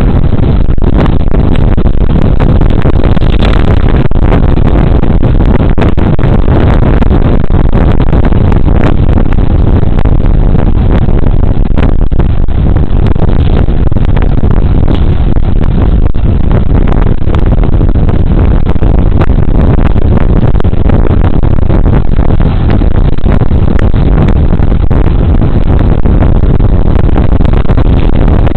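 Wind buffeting a body camera's microphone while riding a Suzuki Burgman Street 125 scooter: a loud, steady rush heaviest in the low end, with scattered brief crackles.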